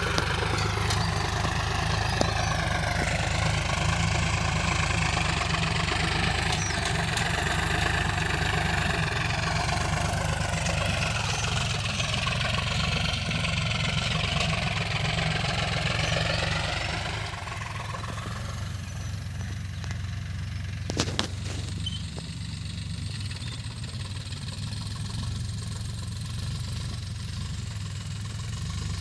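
Ploughing tractor's engine running steadily, louder for the first half or so, then quieter from a little past halfway, with a couple of sharp clicks soon after.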